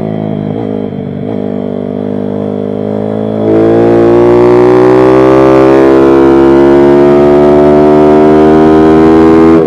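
Pit bike's small single-cylinder engine running hard. Loudness steps up suddenly about a third of the way in as the throttle opens, and the pitch then climbs slowly as the bike pulls.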